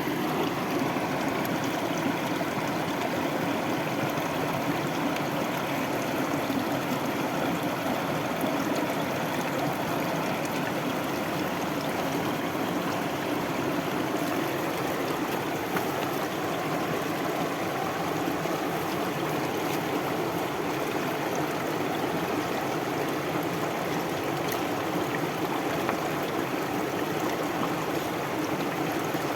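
A stream of water flowing steadily, an even rushing with no breaks.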